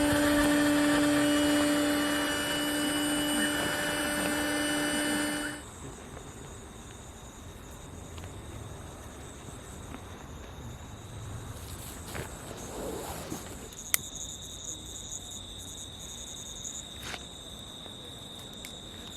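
A motor runs with a steady, even hum and cuts off suddenly about five seconds in. After that, insects keep up a steady high-pitched chirring, with a few faint clicks.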